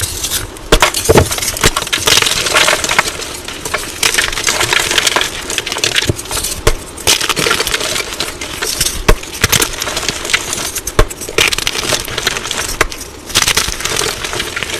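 Blocks of coloured gym chalk being crushed: a dense, crunchy crackling of breaking chalk pieces that goes on without a break.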